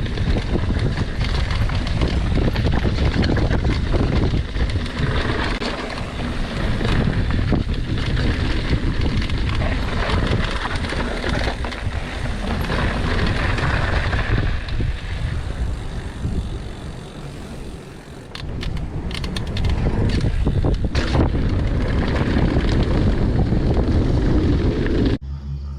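Wind buffeting the microphone and the clatter of a mountain bike running fast down a dirt trail, with a short lull about two-thirds of the way through. It cuts off suddenly just before the end.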